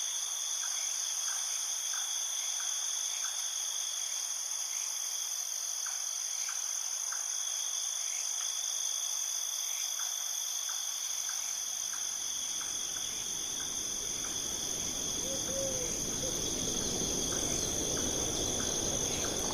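A steady, high-pitched chorus of insects trilling, with faint short chirps repeating underneath. From about halfway through, a low rushing noise rises beneath it.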